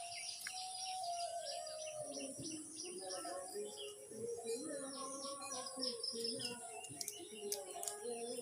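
Parrot chirping in quick high notes over background music with long, sliding tones.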